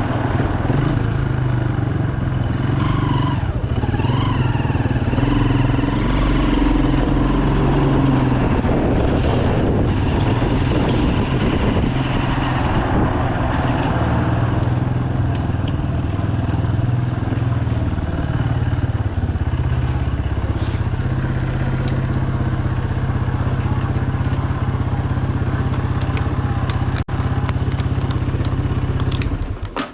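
Bajaj Pulsar 200's single-cylinder engine running while the motorcycle is ridden through city traffic, its pitch rising and falling with the throttle. The sound cuts off sharply near the end.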